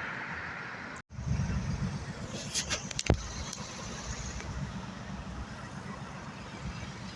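Low, steady engine rumble of a vehicle, starting abruptly about a second in after a brief dropout, with a few sharp clicks around three seconds in.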